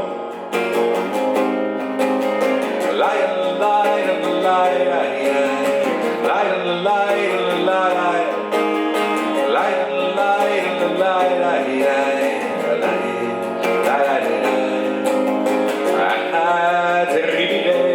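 Acoustic guitar strumming a steady accompaniment, with a melody line on top that glides and bends in pitch.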